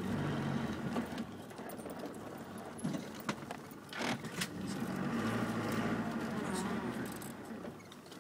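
Land Rover Discovery Mk1 engine heard from inside the cabin as it drives off-road, the engine note swelling about five seconds in and easing off near the end. Sharp knocks and rattles from the body and loose gear come through a few times.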